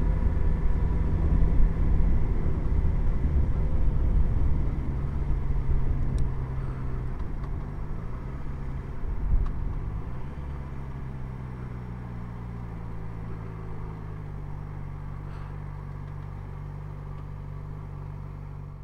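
Motorcycle engine running under a low rush of noise, its pitch dipping and rising again about halfway through, then settling into a steadier, quieter run.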